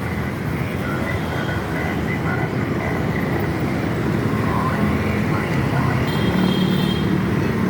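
Steady rumble of a moving vehicle, with faint voices in the background.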